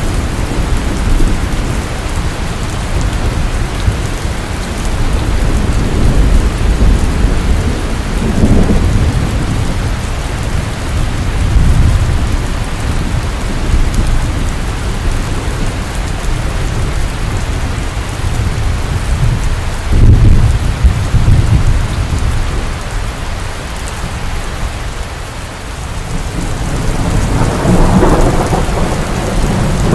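Steady rain falling, with low rumbles of thunder rolling in and out several times. The loudest roll comes about two-thirds of the way through, and another builds near the end.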